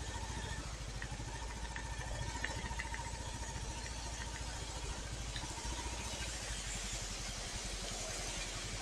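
Royal Enfield Classic 350's single-cylinder engine running steadily at low revs with an even, rapid pulse.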